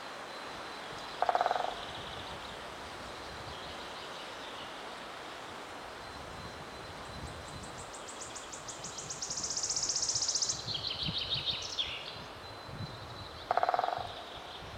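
Animal calls over a steady hiss: two short croaks, about a second in and near the end, and a fast high-pitched trill in the middle, with a faint steady high tone throughout.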